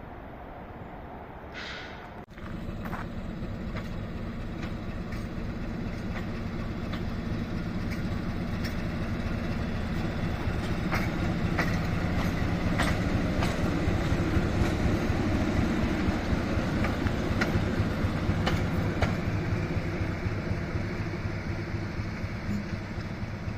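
A train rolling past: a steady low rumble of the running train with repeated sharp clicks of the wheels on the track, swelling to its loudest mid-way and easing a little near the end. It starts abruptly about two seconds in.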